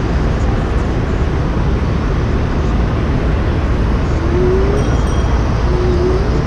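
Steady city street traffic noise heard from a moving bicycle, a dense rumble heavy in the low end. Brief rising tones sound about four and six seconds in.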